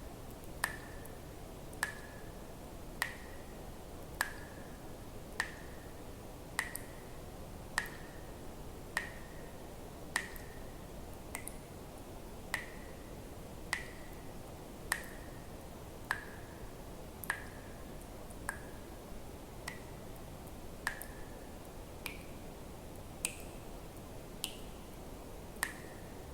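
Water drops falling one at a time at a steady pace, about one every second and a quarter, each a sharp plink with a brief ringing tone; a few drops near the end ring higher. A faint steady hiss lies underneath.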